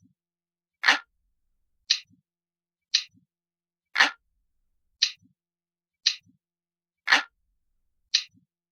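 Analog clock ticking, one tick a second, with every third tick fuller and louder.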